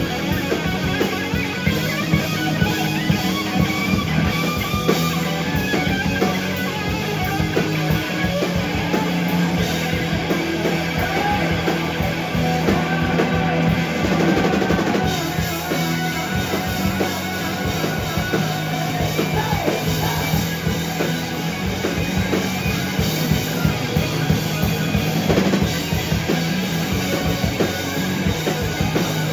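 Rock band playing live, a steady instrumental passage with drum kit and guitar at an even, loud level, with a few bending guitar lines in the middle.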